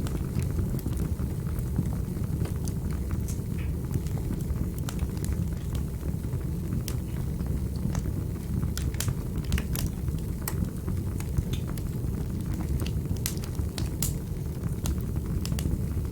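Wood fire burning in a fireplace: a steady low rumble of the flames with frequent sharp crackles and pops at irregular moments, thickest in the second half.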